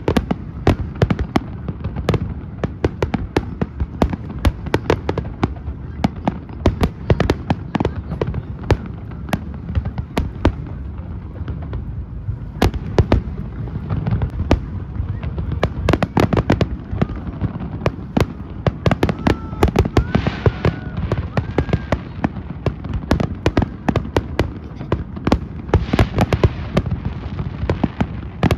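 Fireworks display: a dense, continuous barrage of sharp bangs and crackling pops over a low rumble.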